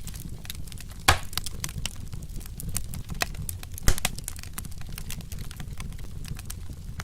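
Wood fire crackling: a dense run of small snaps over a low steady rumble, with two louder pops, one about a second in and one a little past the middle.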